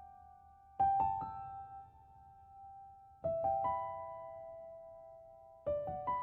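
Background music: soft piano chords struck about every two and a half seconds, three times, each a quick cluster of notes left ringing and fading.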